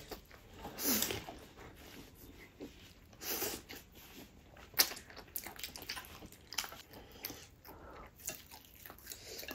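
Close-up chewing and biting sounds of a person eating, wet and irregular, with a few louder bites around a second and three seconds in and a sharp click about five seconds in.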